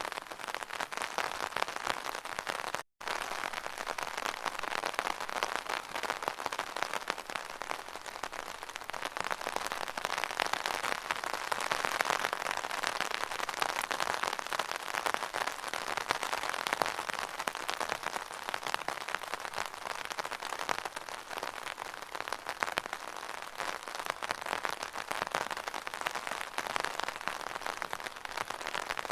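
Rain pattering densely and steadily on an umbrella, a thick mass of fine drop ticks. It cuts out for a split second about three seconds in, then carries on.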